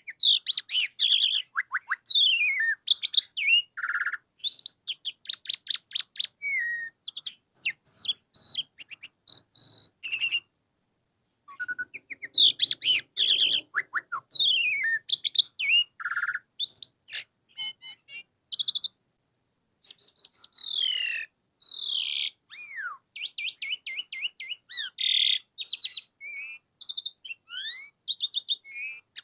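Asian pied starling (jalak suren) in full, continuous song: a varied run of whistles, rising and falling slurred notes and rapid clicking rattles, breaking off twice for about a second.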